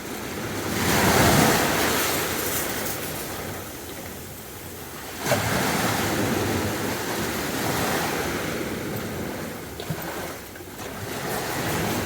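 Sea waves breaking and washing up the beach in slow, repeated swells of surf, one wave breaking suddenly about five seconds in.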